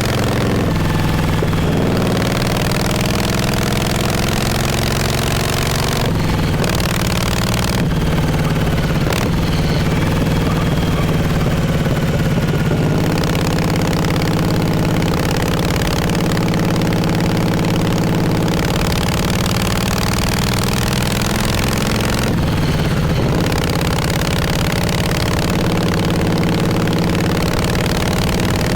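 1948 Harley-Davidson Panhead V-twin's exhaust while riding. The engine note climbs in pitch and breaks off briefly at about six, eight and twenty-two seconds in before climbing again.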